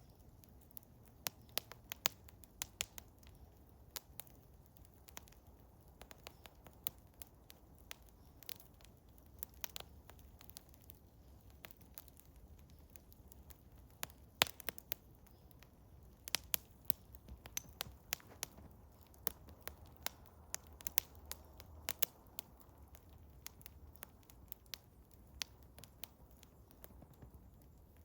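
Eastern hemlock wood fire crackling: irregular sharp pops and snaps, several a second, with one louder pop about halfway, over a faint low rumble.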